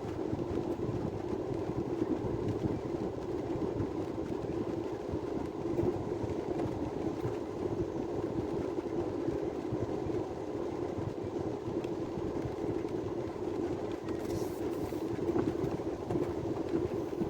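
Steady rain falling, an even rushing noise with no breaks.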